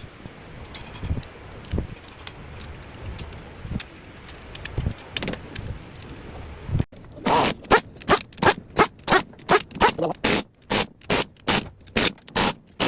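Hand tools at work on an engine: scattered light clicks and knocks, then, after an abrupt cut, a run of loud, even, sharp strikes about three a second.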